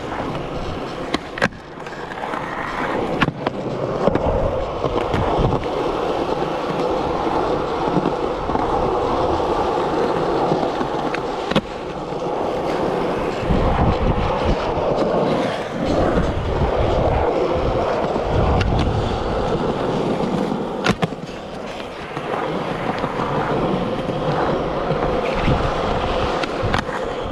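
Skateboard wheels rolling on skatepark concrete, with a few sharp clacks of the board striking the ground.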